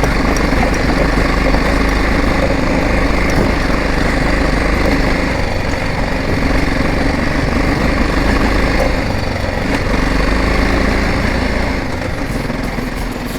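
Motorcycle engine running as the bike rides over a stone-paved dirt road, a steady dense rumble that eases slightly near the end.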